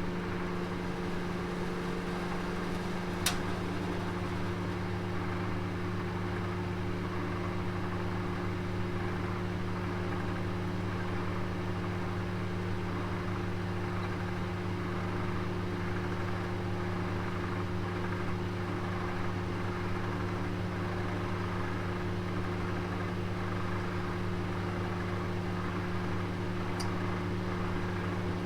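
Oven running with a steady hum and an even whir over it, a roast cooking inside. A single sharp click comes about three seconds in, and a fainter one near the end.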